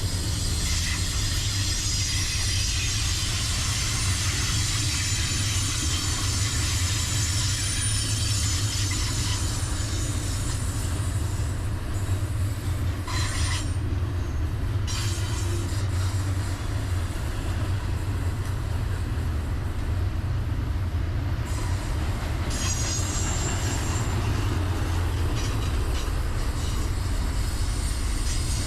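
Freight train rolling past with a steady low rumble of its cars and a high squeal of wheels on the rails. The squeal fades about halfway through and comes back near the end.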